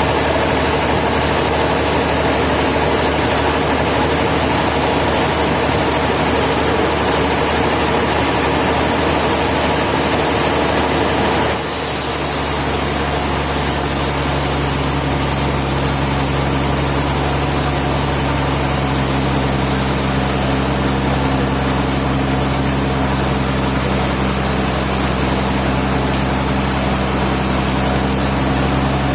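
Engine of a sawmill running steadily. About twelve seconds in, the sound shifts abruptly to a lower, steadier hum with more hiss above it.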